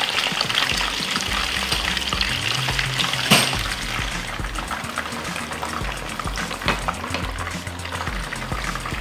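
Steady sizzling and crackling of food cooking on the stove, with background music's low notes underneath. A single sharp clink about three seconds in.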